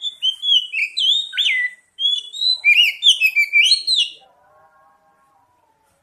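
Oriental magpie-robin (kacer) song: a fast, varied run of loud whistled notes and sweeping slides in two bursts, stopping about four seconds in. A faint, lower warble follows briefly.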